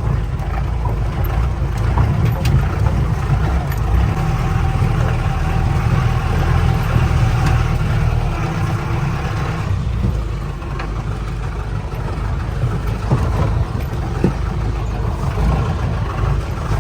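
Mahindra 4x4 jeep's engine running steadily as it drives over a rough off-road track, with a loud low rumble and a few sharp knocks and rattles. It eases off briefly about ten seconds in.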